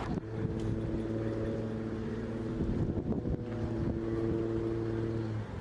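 A steady droning engine hum holding one low pitch with several overtones, unsettled briefly midway, that cuts off suddenly near the end.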